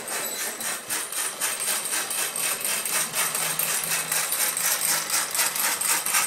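Miniature model steam engine running, its piston and linkage making a rapid, even clatter of light clicks.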